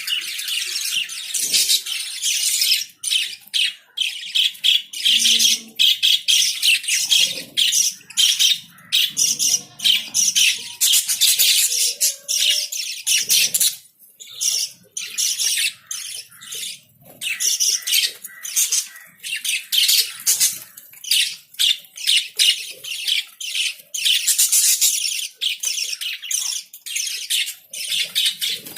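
A flock of pet lovebirds squawking and chirping continuously in a dense, high-pitched chatter of rapid overlapping calls, with a brief lull about halfway through.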